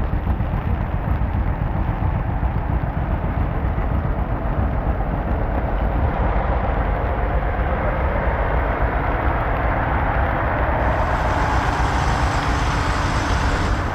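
Heavy truck running: a steady, noisy engine sound, with the middle range growing stronger from about ten seconds in.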